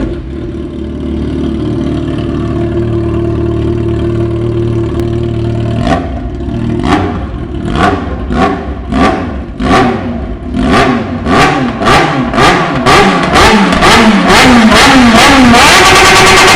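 Car engine idling steadily, then free-revved in a series of quick throttle blips that come faster and faster. Near the end it is held at high revs.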